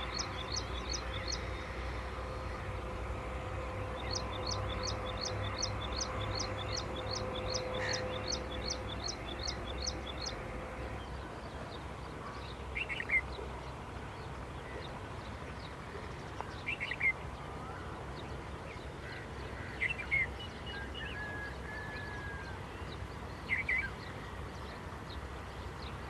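Songbird singing a fast run of the same high note over and over, two or three a second, which stops about ten seconds in. After that, short single chirps come every few seconds over steady outdoor background noise.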